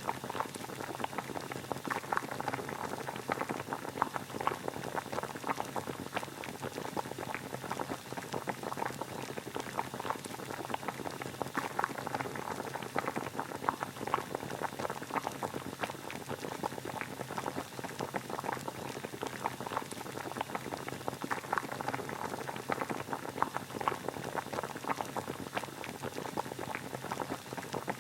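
Water at a rolling boil, a steady mass of small bubbling pops with no let-up.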